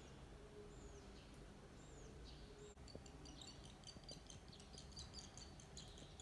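Barn swallow nestlings, about five days old, calling faintly with thin, dry, high chirps. A few single arching chirps come about once a second, then about two seconds in the brood breaks into a rapid, overlapping chorus of short begging peeps.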